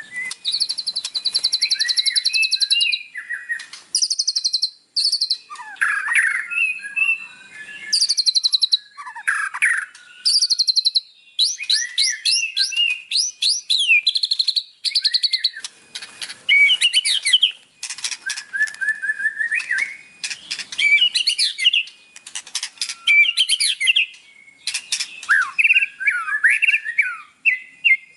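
White-rumped shama (murai batu) singing a long, varied song: fast trills, rapid runs of repeated high notes and sliding whistled phrases, broken by short pauses, packed with mimicked fill-in phrases (isian).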